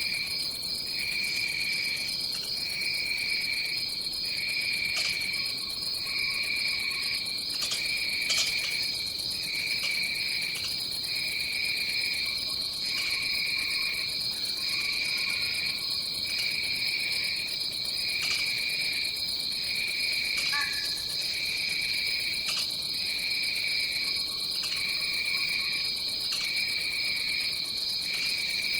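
Tropical forest insect chorus: one steady high trill, with a lower trill under it that pulses about once a second. Faint short animal calls come in now and then, including a brief falling call about two-thirds of the way through.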